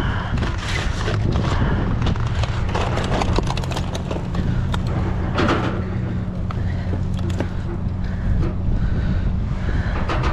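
Junk being rummaged through in a dumpster: scattered knocks, clicks and rattles of items being shifted and picked up, over the steady low hum of an idling vehicle engine.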